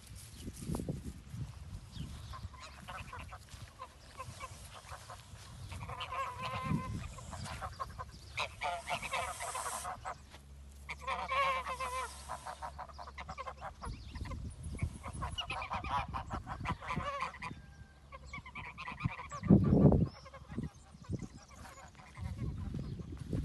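Fowl calling in rapid runs of honking calls, several bouts in a row, with a loud low bump about twenty seconds in.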